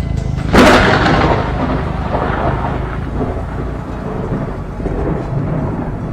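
A thunderclap: a sudden sharp crack about half a second in, followed by a long rolling rumble that slowly fades.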